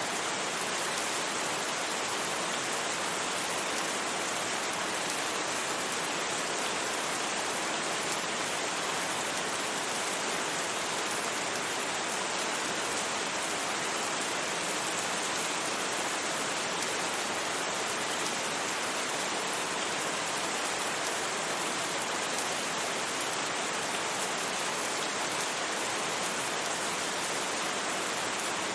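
Steady rain with an even hiss, no thunder and no distinct drops standing out.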